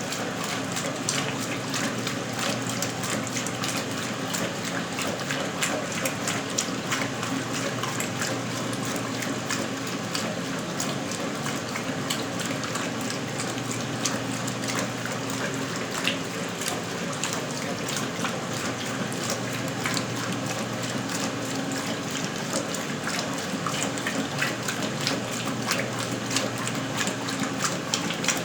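A 1977 Westinghouse Lavínia washing machine (model LWAAP6KX) running with water: a steady motor hum under splashing, crackling water.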